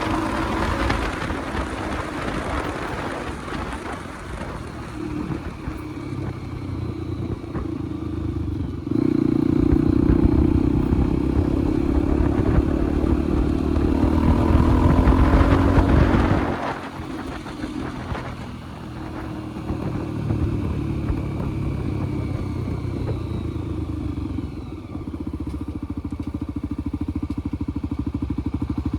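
Motorcycle engine running while riding. About a third of the way in it gets louder for several seconds, then drops back and runs more quietly.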